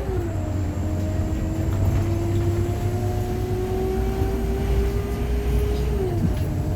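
Scania Omnilink K230UB bus heard from on board, its engine rumbling as the bus accelerates. The engine note climbs slowly and drops sharply twice, just after the start and near the end, as the automatic gearbox changes up.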